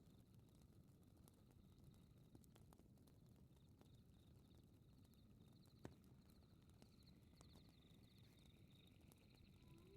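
Faint fireplace crackling over a low rumble, with scattered pops and one sharper pop about six seconds in, under a high, pulsing chirp. Right at the end a wolf howl begins, rising in pitch.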